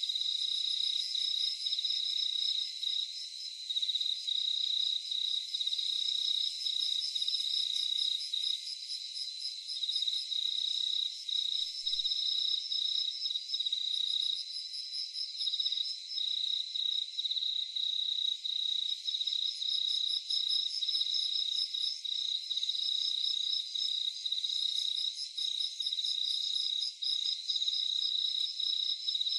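A chorus of night crickets: one steady, high trill runs throughout while another cricket chirps in quick, even pulses just above it, fading out and back in a few times.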